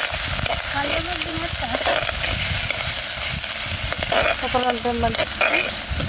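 Food frying and sizzling in hot oil in a pan while it is stirred, a steady hiss with occasional scrapes.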